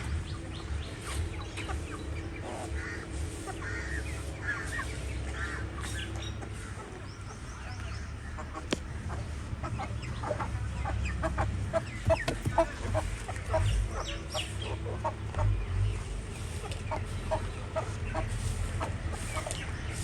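A flock of young Indian Parrot Beak chickens clucking, with many short calls scattered throughout over a steady low rumble.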